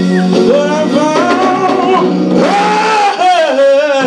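Live gospel music: a male lead voice sings long notes that slide up and down, over a backing band with guitar and a held low tone.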